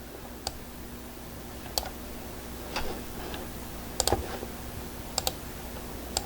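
Scattered, irregular clicks from a computer mouse, about eight of them with a couple in quick pairs, over a faint steady hum.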